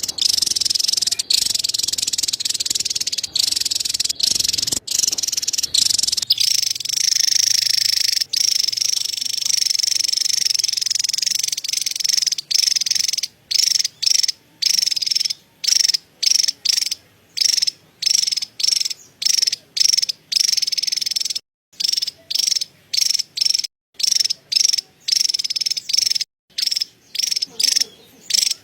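Javan tesia giving its chattering call: a high, rapid, buzzy trill. It runs unbroken for the first dozen seconds, then comes in short bursts with brief silences about twice a second.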